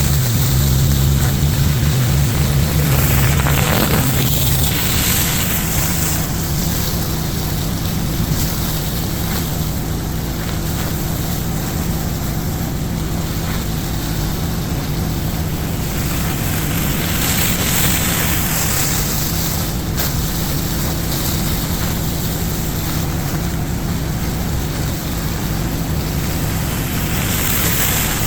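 Gas-engine pressure washer running steadily, with the hiss of high-pressure water spraying on concrete that swells and fades several times.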